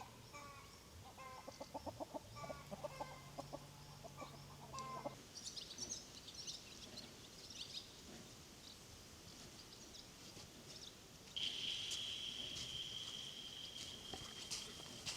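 Domestic hens clucking for the first few seconds, then small birds chirping. From about eleven seconds in, a steady high-pitched tone sets in and is the loudest sound.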